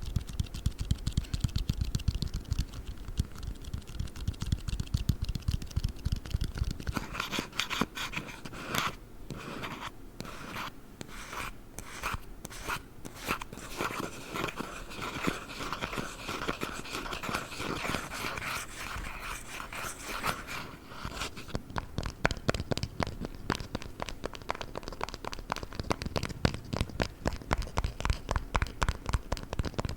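Squishy dumpling toys squeezed and handled close to the microphone, making sticky, crinkly, scratchy ASMR trigger sounds. About seven seconds in, dull low handling gives way to sharper crackling, and after about twenty seconds it turns into quick dense ticking.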